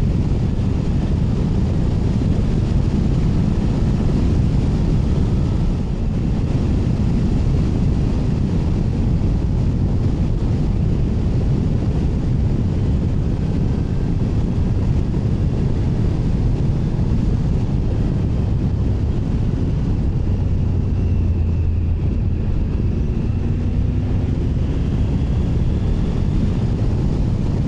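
Triumph Tiger 900 Rally Pro's three-cylinder engine running steadily under way, heard with heavy wind rush on the rider's microphone.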